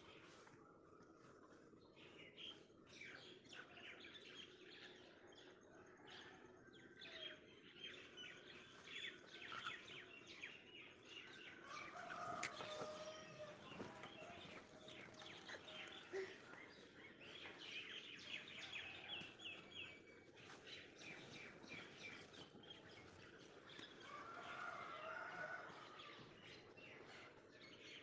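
Faint birds chirping and twittering in the background, with a couple of short, lower calls about halfway through and again near the end.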